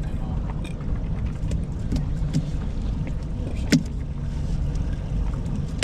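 Steady low rumble aboard a fishing boat on the water, with a single sharp knock a little past halfway through.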